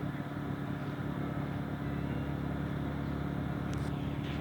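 Steady drone of a radio-controlled model airplane's twin electric motors and propellers, an even low hum that holds without change.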